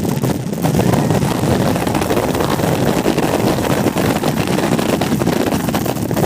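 Loud, steady rumbling rush of wind buffeting the microphone.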